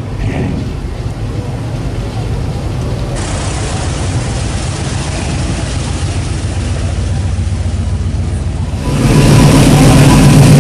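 Cars cruising by with their engines running, low and steady. About nine seconds in a louder engine comes close and takes over.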